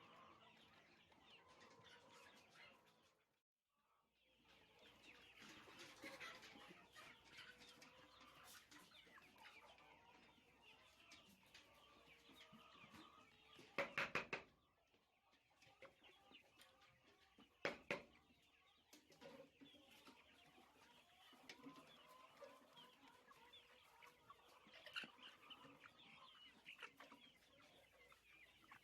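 A flock of chickens clucking and chirping faintly. A few sharp knocks sound about halfway through, then a couple more a few seconds later, louder than the birds.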